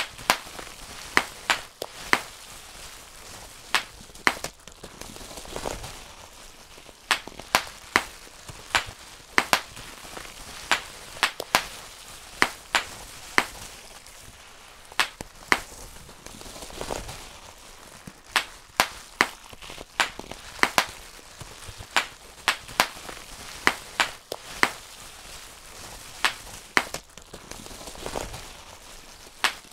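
Bubble wrap being popped, one bubble at a time, in sharp, irregular snaps about one or two a second, with a few softer rustles of the plastic sheet between them.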